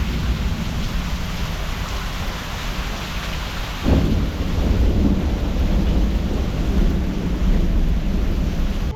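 Heavy rain falling steadily during a thunderstorm, with a crack of thunder about four seconds in that rumbles on low for several seconds.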